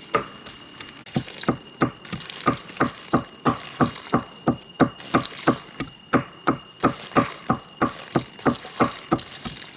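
Repeated hand-tool strikes, as in hammering or chopping, coming fast and even at about three a second after a short pause about a second in.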